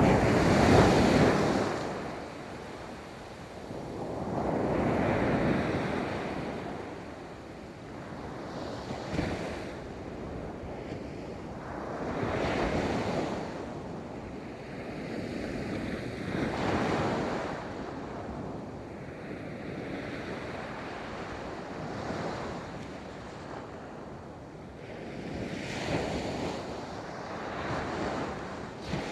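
Ocean waves breaking and washing up a beach, in swells that rise and fall every four seconds or so, the loudest right at the start.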